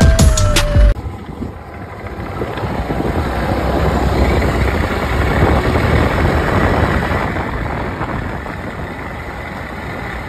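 A short music sting ends about a second in, then a Yamaha Cuxi 100 scooter's single-cylinder engine and belt drivetrain run, getting louder over a few seconds and then easing off. The drivetrain has an abnormal noise that sounds much like a worn gearbox bearing but is traced to the rear pulley's driven sheave (開閉盤).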